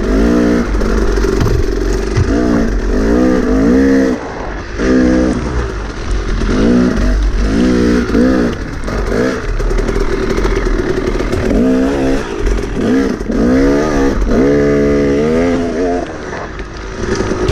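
Enduro dirt bike engine on the trail, its throttle worked in quick repeated surges, the pitch rising and falling again and again as the rider picks through the track.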